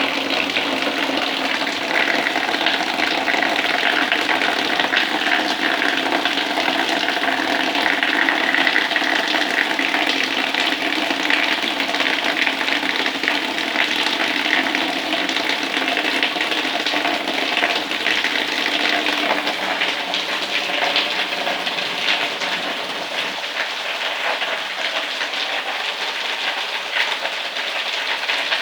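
Rain falling steadily, a dense continuous hiss that eases slightly near the end.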